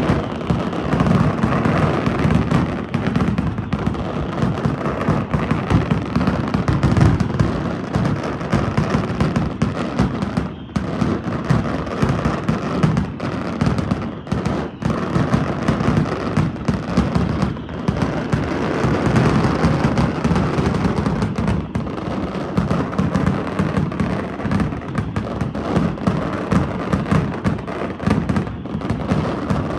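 A daytime fireworks display firing continuously: a dense, unbroken barrage of shell bursts, booms and crackling with no pauses.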